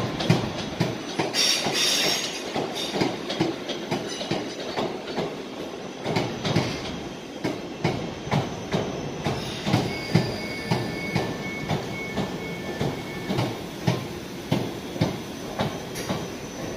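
A train rolling slowly through the station, its wheels clacking over rail joints and points in a steady run of knocks. There is a brief high wheel squeal about two seconds in, and a high broken tone around ten seconds in.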